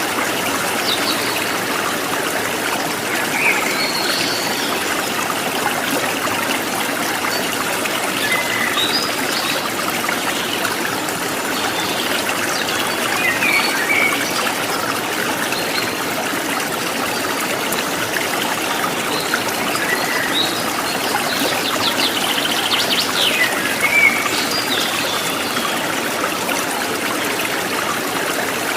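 Running water, a stream trickling and splashing steadily, with scattered short bird chirps over it.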